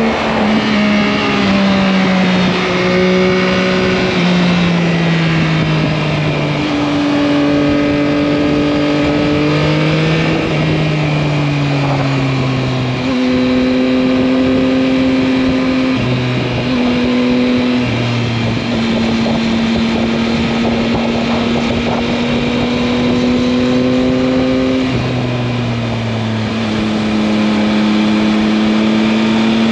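Yamaha MT-09's 889 cc three-cylinder engine running under way. Its pitch falls in several steps over the first half, then holds mostly steady with small rises and dips.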